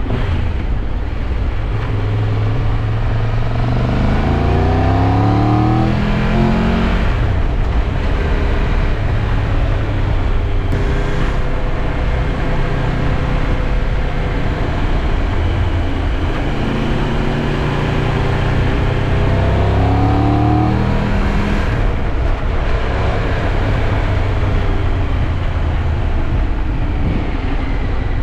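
Triumph Tiger 1200 Rally Pro's three-cylinder engine accelerating twice, rising in pitch and dropping at each gear change, a couple of seconds in and again past the middle. Steady wind and road rush runs underneath.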